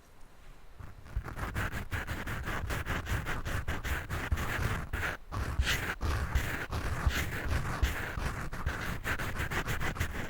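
Rapid, continuous scratching directly on a microphone, a dense scratchy rasp over a deep rumble of handling noise. It starts faint and builds up over the first second or so.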